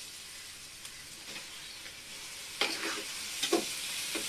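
Chopped onions and vegetables frying in oil in a metal pot, with a steady sizzle. From about two and a half seconds in, a metal spatula scrapes and clinks against the pot a few times as chopped tomatoes are stirred in.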